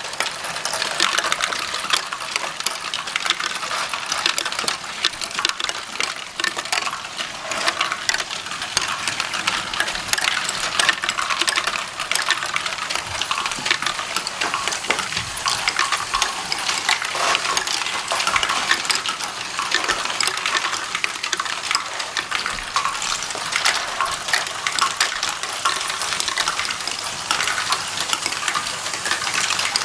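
Small plastic Lego bricks clattering and clicking as they are handled, a dense, continuous, irregular rattle of hard little pieces knocking together.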